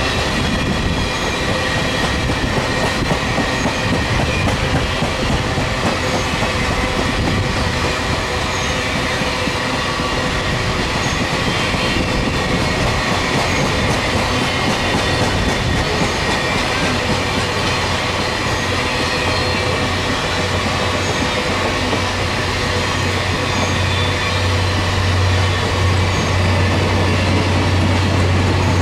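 Railroad cars of a passing train rolling steadily along the track, wheels running over the rails with a thin high whine. A low hum grows stronger over the last few seconds.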